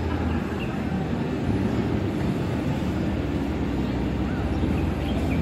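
Sports car engines running steadily, a low even rumble without clear revs, with faint voices over it.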